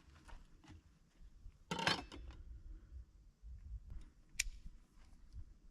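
Cooking utensils handled at a barbecue hot plate: a brief scrape about two seconds in and a sharp click a couple of seconds later, with light clicks in between.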